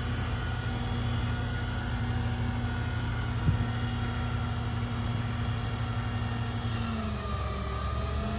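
The Ram 5500's 6.4-litre gasoline Hemi V8 running steadily at raised idle with the PTO engaged, with no lifter tick. A single click comes about three and a half seconds in, and near the end the engine note dips briefly and recovers.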